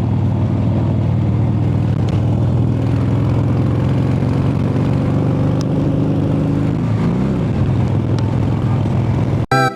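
Motorcycle engine running steadily while riding, with wind noise on the microphone; the engine note rises briefly about seven seconds in. Guitar music cuts in abruptly right at the end.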